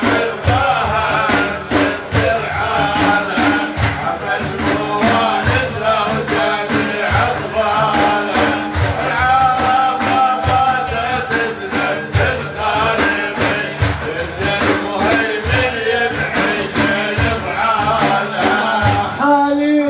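Frame drums beat a steady rhythm under a sustained melodic line, an instrumental interlude between sung verses of an Iraqi Sufi madih.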